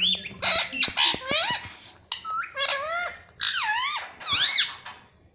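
Indian ringneck parrot making a run of short, high calls in several bursts, each swooping up and down in pitch, trailing off near the end.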